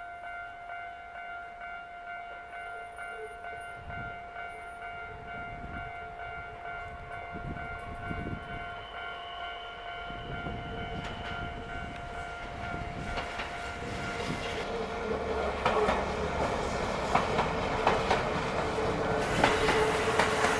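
Level-crossing warning bell ringing steadily. From about halfway through, a train approaches and runs through the crossing, growing steadily louder, with wheels clattering over the rail joints.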